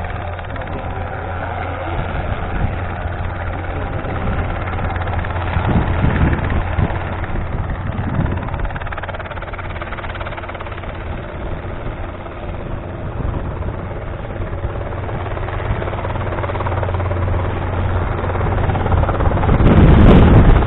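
Robinson R22 helicopter running steadily, its engine and rotor giving a constant low drone. Near the end a louder rush of wind on the microphone comes in.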